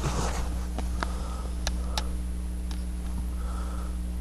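A steady low hum, with a short sniff at the start and a few short, sharp clicks scattered through.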